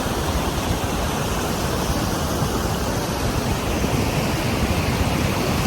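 Epupa Falls on the Kunene River pouring down close by: a loud, steady rush of falling water.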